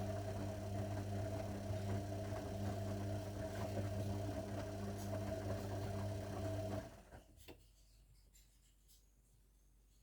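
Zanussi washing machine humming steadily, then the hum cuts off suddenly about seven seconds in, followed by a faint click and quiet room noise.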